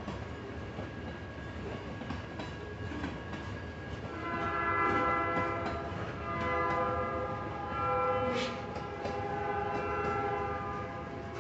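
Freight train passing a grade crossing: a low rumble with scattered clicks from the rolling cars. From about four seconds in, the locomotive's horn sounds a chord of several notes in several blasts, one of them short.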